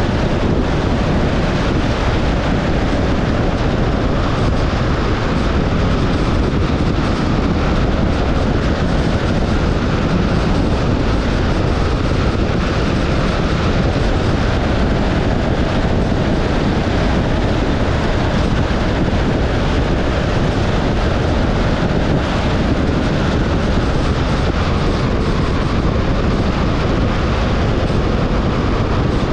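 Steady road noise of a car driving at speed: a continuous rush of tyre and wind noise, loudest in the low end, with a faint hum.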